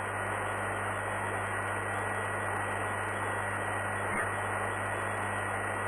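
Air-band radio receiver static from an air traffic control recording: a steady hiss with a low hum and a faint steady whistle, and one short click about four seconds in.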